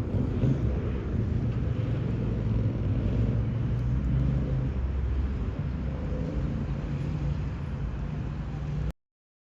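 Steady low rumble of city ambience with road traffic, cutting off abruptly into silence near the end.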